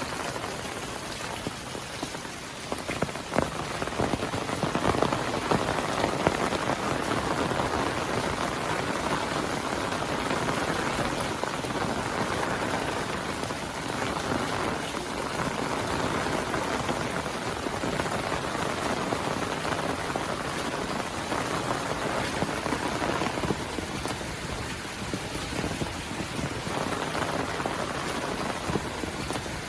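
Heavy monsoon rain falling steadily, a dense even hiss of drops, with a few sharper, louder drop hits early on.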